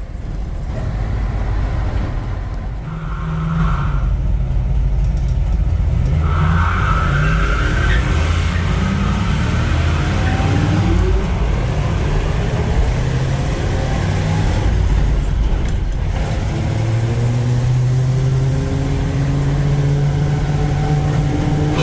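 1948 Ford F5 bus engine pulling away and accelerating, its pitch climbing several times through the middle, then settling into a steady run near the end.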